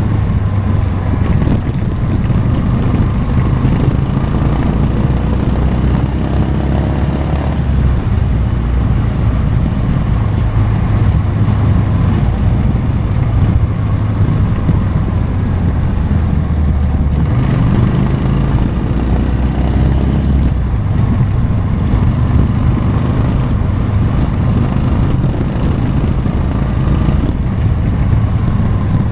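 Motorcycle engine running while riding, its low note shifting up and down several times with throttle and gear changes, with wind noise on the microphone.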